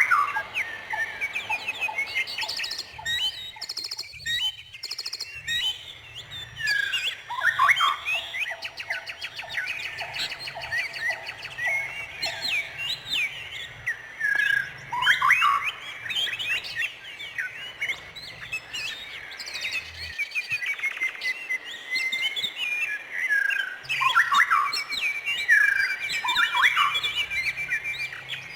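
Songbirds chirping and singing with overlapping calls: many short rising and falling chirps. A lower repeated trill comes in about a third of the way through, and a fast, even trill sounds near the end.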